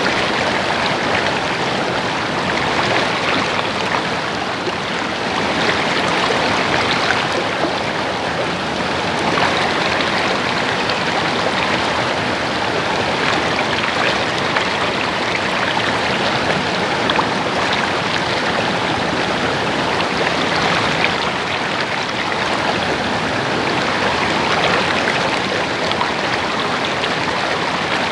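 Stream water running and splashing steadily over rocks, a continuous gurgling rush.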